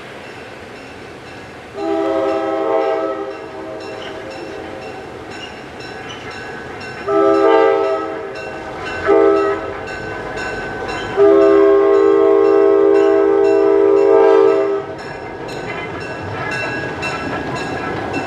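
A locomotive sounding the grade-crossing signal as a multi-note chord: two long blasts, a short one, then a final long blast. Train rumble and wheel noise continue underneath and after.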